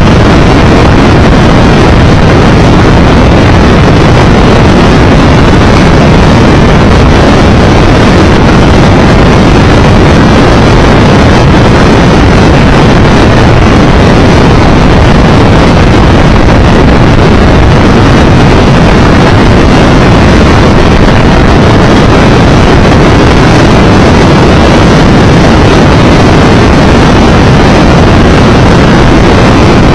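Loud, steady wind rushing over the microphone together with engine and road noise of a Triumph Tiger Explorer 1200 motorcycle cruising at speed.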